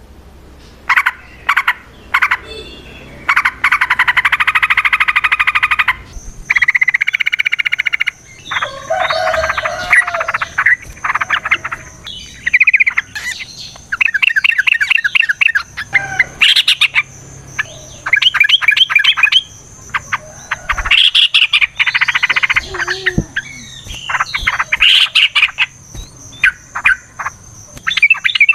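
Yellow-vented bulbuls (trucukan) singing in bursts of rapid chattering trills and short bubbly notes, one run after another, in the long 'fighting' trill used to lure or train the species. A thin steady high tone runs beneath from about six seconds in.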